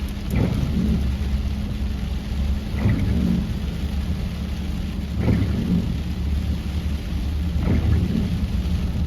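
Car windshield wipers sweeping about every two and a half seconds, each pass giving a short squeak, over rain on the car and a steady low rumble inside the cabin. The new wiper blades squeak on the wet glass, which the driver thinks may need a different washer fluid.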